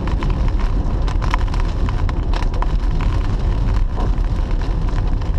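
Inside a moving car: a steady low rumble of engine and road noise, with rain striking the roof and windshield in many scattered ticks.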